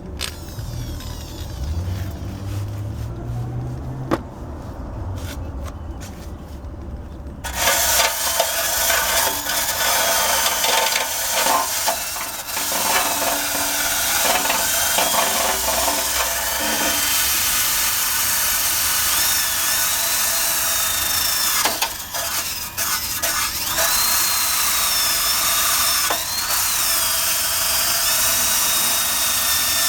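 Electric drill spinning a wire brush against the Honda Cub's steel undercarriage to scour off rust and paint. It starts suddenly about a quarter of the way in and then runs steadily as a harsh scrubbing with a wavering high whine.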